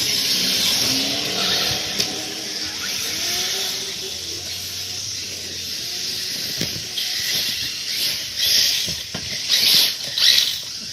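Radio-controlled short course trucks racing: a continuous high-pitched motor whine and hiss, surging several times near the end as the throttle is opened.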